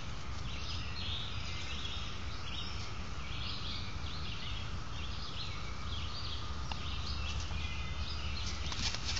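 Several birds singing and chirping in overlapping short calls, heard through a trail camera's microphone over a steady low hum.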